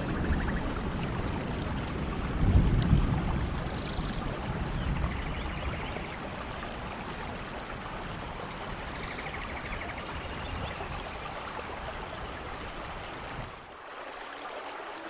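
Steady rain: an even hiss with a low rumble that swells in the first few seconds. Short high chirps come and go over it. The low rumble drops away for a moment near the end.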